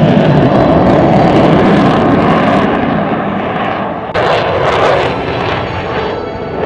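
Loud, steady aircraft engine noise from a display plane flying by, with no clear propeller tones. About four seconds in it cuts abruptly to a slightly different stretch of the same kind of engine noise.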